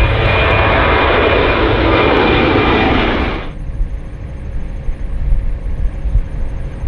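Jet airliner engine noise at close range, loud and steady, that cuts off abruptly about three and a half seconds in, leaving a low rumble.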